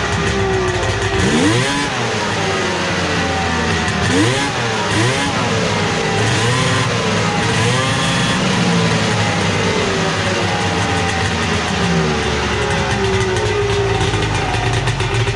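Polaris 650 triple snowmobile's three-cylinder two-stroke engine with SLP aftermarket pipes, loud, revved up and down in several blips during the first half, then settling to a steady idle. The sound fills a small garage.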